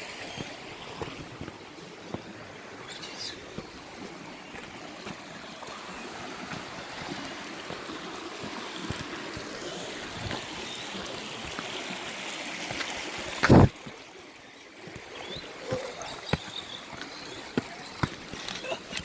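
Steady rush of flowing water from a creek, with a loud thump about two-thirds of the way through and a few light clicks near the end.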